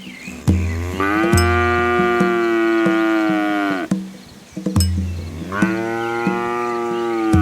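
A cow mooing twice: one long moo of about three seconds, then a second one starting near the end.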